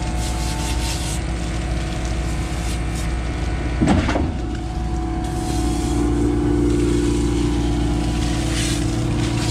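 Concrete pump truck's engine running steadily while the pump's valve is hosed out with water, with a short louder rush about four seconds in. The engine note grows a little stronger after the middle.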